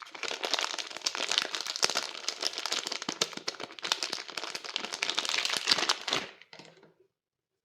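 Soap wrapping crinkling and crackling as it is unwrapped by hand: a dense run of small crackles for about six seconds that thins out and stops about a second later.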